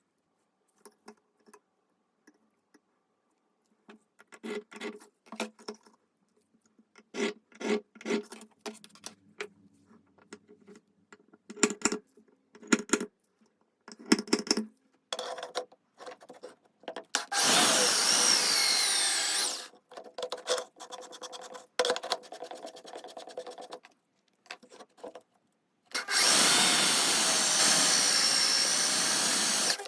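Tools and parts clicking and knocking as they are handled, then a power tool run twice, for about two seconds and then for about four, its pitch sliding as it speeds up and slows.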